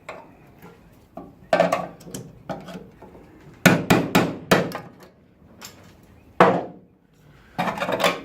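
A series of irregular hammer blows on the steel bodywork of a car, each strike ringing briefly, with pauses of up to about a second between groups.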